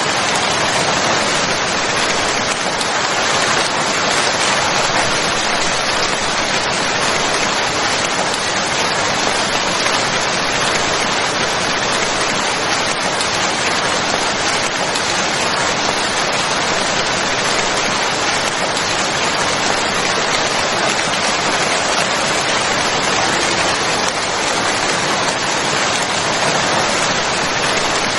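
Steady rain falling, a continuous even hiss of many drops.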